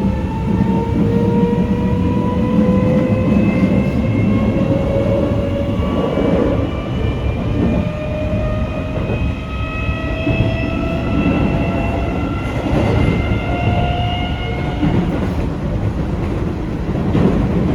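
Keio 8000 series train fitted with a Toshiba IGBT inverter and permanent-magnet synchronous motors, accelerating. Several whine tones rise slowly in pitch and shift to new tones a few times over the rumble of wheels on rail, and the whine stops about 15 seconds in. This is the unusual-sounding drive, the same as the Seibu 40000 series.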